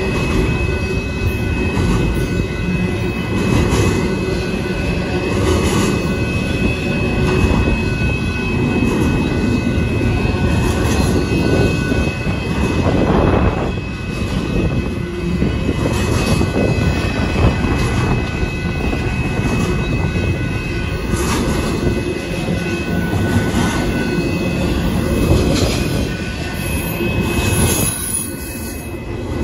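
Union Pacific intermodal train of double-stack container cars rolling past at a grade crossing: a continuous loud rumble and rattle of wheels on rail and swaying cars, with a thin steady high tone running over it.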